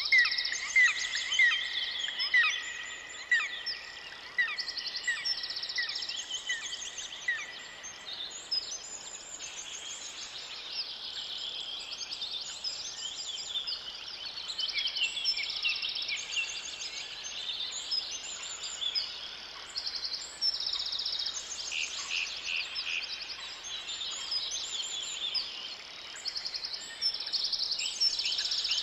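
Several songbirds singing together in a forest, with many overlapping high trills and chirps. For the first seven seconds or so, one bird repeats a short sharp note about twice a second.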